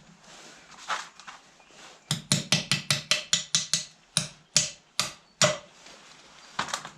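Hammer tapping on metal: a quick run of about ten light strikes, then four slower, heavier ones and a last one near the end, each with a short metallic ring.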